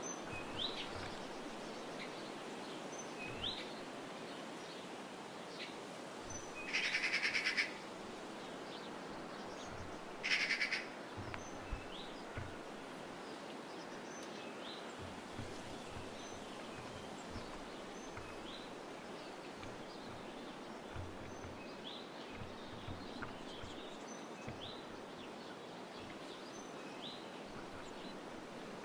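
Small songbirds calling at a garden feeder: scattered short rising chirps throughout, with two louder, harsh rapid rattles, one about 7 seconds in and a shorter one about 10 seconds in, over a steady background hiss.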